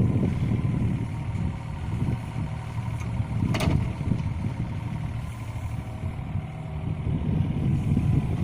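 Yanmar ViO35-3 mini excavator's diesel engine running under changing hydraulic load, its sound swelling and easing every second or two, with a faint steady whine. A short sharp clink about three and a half seconds in.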